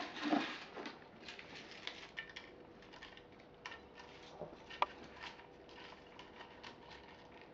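Toy garbage trucks and bins being handled: faint scattered clicks and taps, with one sharper click about five seconds in.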